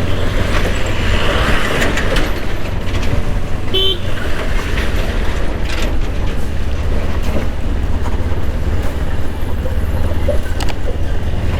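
Riding noise of a Kawasaki Ninja 300 motorcycle heard through a helmet mic: a steady low rumble of wind and engine, with a short horn beep about four seconds in.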